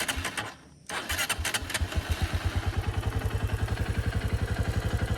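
Honda XR150L's small air-cooled single-cylinder four-stroke engine being started: a short burst of cranking, a brief pause, then it catches about a second in and settles into a steady, evenly pulsing idle. It runs with a little stuttery miss.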